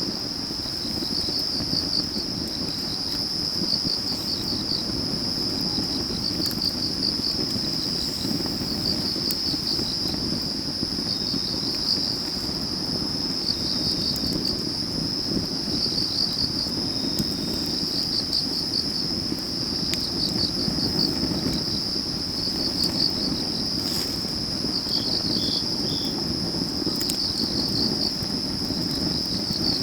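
Autumn field crickets and other grass insects singing in a steady high trill, with rhythmic chirp groups repeating about every two seconds. Beneath them a log fire burns with a low steady rush and a few faint crackles.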